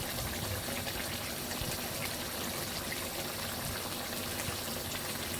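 Chicken curry simmering in the pan, a steady hiss of cooking.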